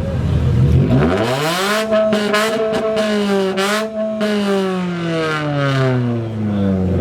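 Car engine revved hard through a very loud exhaust: the pitch climbs steeply about a second in, is held high for a couple of seconds with a few sharp crackles, then slowly falls back as the revs drop.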